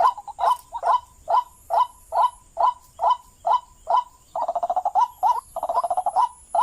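White-breasted waterhen (ruak-ruak) calling, a lure call: short harsh calls repeated evenly about two a second, broken by two quick stuttering runs about two-thirds of the way through.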